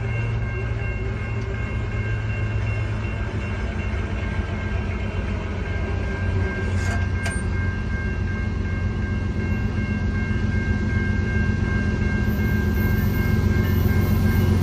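Diesel locomotive of a loaded coal train approaching, its low engine rumble growing steadily louder. A faint, steady high-pitched tone sounds throughout.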